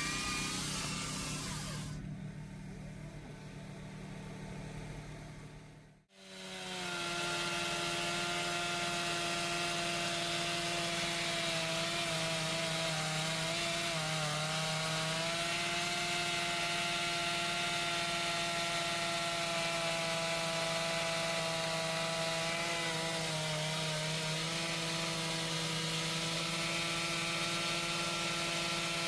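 Chainsaw running at high speed through wood, with a steady pitched whine. The pitch sags briefly twice as the chain loads up in the cut. Before that, the sound fades and cuts out completely about six seconds in, then starts again.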